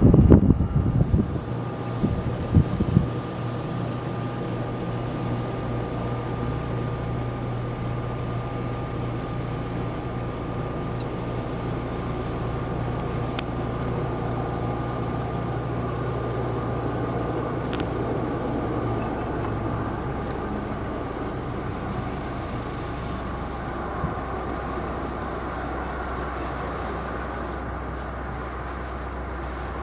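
Boeing C-17 Globemaster III's four Pratt & Whitney F117 turbofans running at taxi power, a steady jet whine with several held tones over a low hum. Low buffeting on the microphone in the first few seconds.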